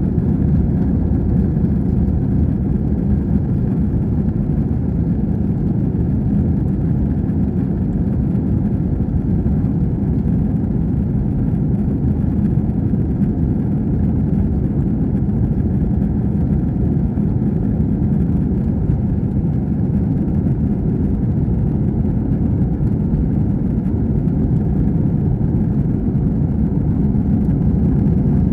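Airbus A321 cabin noise heard from inside the passenger cabin: a steady, loud low rumble of the engines and airflow with no change in pitch or level.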